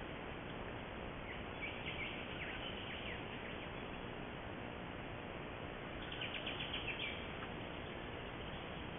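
Steady hiss of background noise with a small bird calling twice: a few scattered chirps about two seconds in, and a quick run of about six sharp, falling notes about six seconds in.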